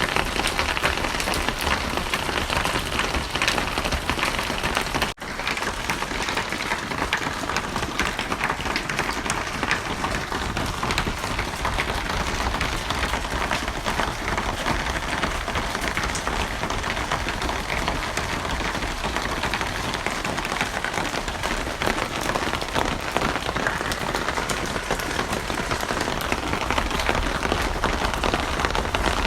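Steady rain falling on a surface, a dense hiss full of individual drops ticking. It cuts out for an instant about five seconds in.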